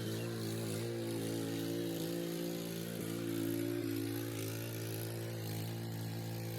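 Troy-Bilt CRT garden tiller's small engine running at a steady, even pitch.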